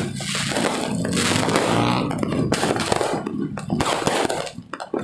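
Fireworks and firecrackers going off: a dense run of sharp bangs and crackling, easing off briefly near the end before another bang.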